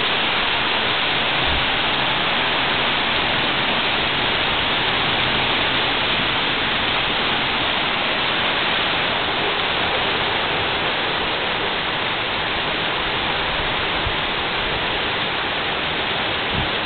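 Heavy rain pouring steadily onto a paved yard, a constant even hiss.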